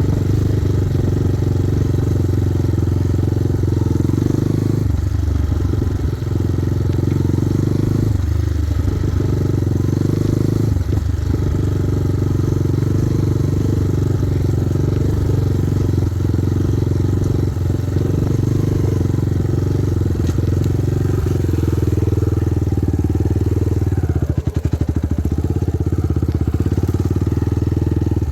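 Kovi Advance 250 motorcycle's single-cylinder engine running steadily, easing off briefly a few times. Near the end the revs drop low enough that the separate firing pulses can be heard.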